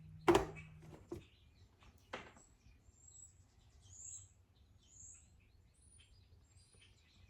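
Faint, high, short bird chirps, about one a second in the second half. A sharp, short thud about a third of a second in, and a weaker one about two seconds in, are the loudest sounds.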